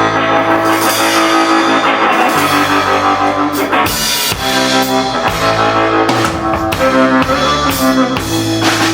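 Rock band playing live with drum kit, guitar and bass in an instrumental passage with no singing. Bass notes and chords change every second or so over steady cymbal hits.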